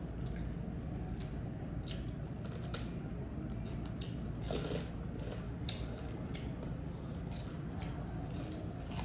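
Crunching and chewing of crisp food, pork cracklings (chicharon) and slices of unripe green mango, with irregular sharp crunches every second or so. A steady low hum runs underneath.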